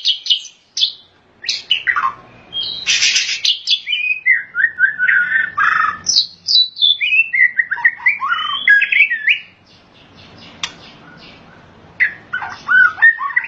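White-rumped shama singing a fast, varied run of whistled phrases with sliding notes, falling quiet for a couple of seconds after the middle before the song starts again near the end.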